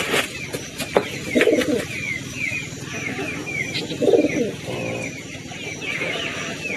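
Birds calling: a steady series of short, high chirps about twice a second, with two lower cooing calls, one about a second and a half in and another about four seconds in.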